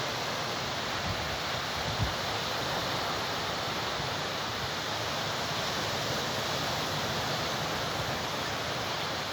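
Steady rushing wash of sea surf, with a couple of brief low bumps about one and two seconds in.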